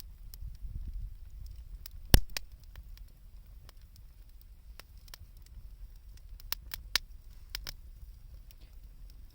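Wood campfire crackling with scattered sharp pops over a low rumble; one much louder crack about two seconds in.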